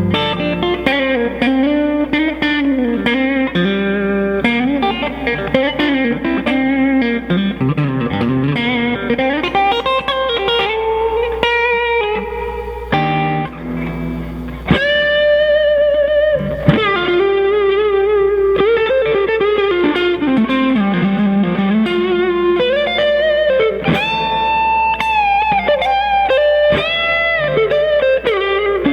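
A PRS semi-hollow-body electric guitar with P90 pickups plays single-note lead lines. The notes have string bends and vibrato, and longer held notes come about halfway through and again near the end.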